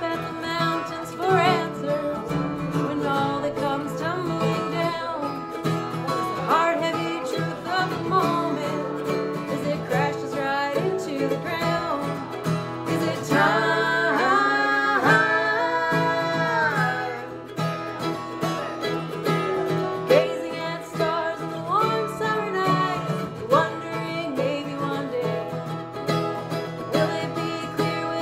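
Live acoustic music with plucked strings in a country or bluegrass style. A brighter, wavering melody line stands out about halfway through.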